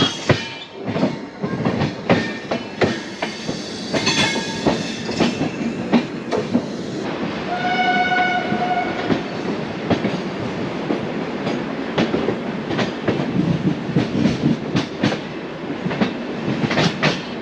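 Double-decker express train running along the track, heard from the coach doorway: a steady rumble with the wheels clattering over rail joints. About halfway through, a train horn sounds once for about a second and a half.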